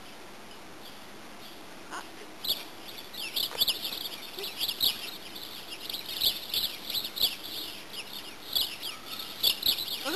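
Birds chirping: many short, quick chirps, several a second, starting about two and a half seconds in over a faint steady hiss.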